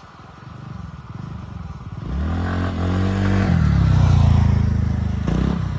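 Motorcycle engine accelerating: its pitch rises for about a second and a half, then drops while the sound keeps getting louder, peaking about four seconds in.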